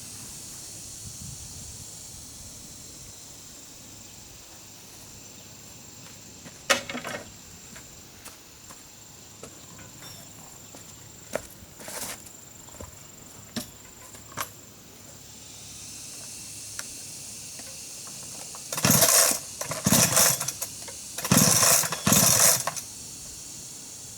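Scattered knocks of work on timber, then four louder rasping strokes about a second apart near the end, over a steady high insect drone.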